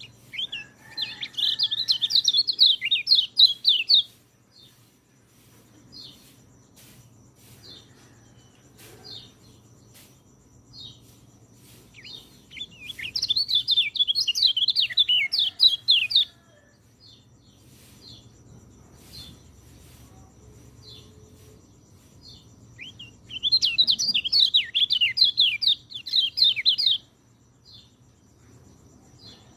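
Orange-headed thrush (peleci) singing: three bursts of fast, varied, high-pitched song, each about three seconds long and about ten seconds apart, with faint single chirps in between.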